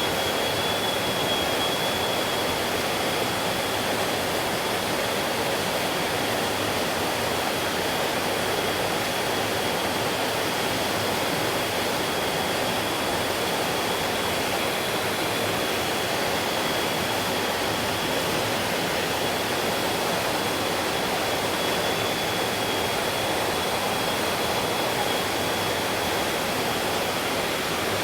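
Valley stream flowing, an even, continuous rush of water with no breaks. A thin, steady high tone holds above it.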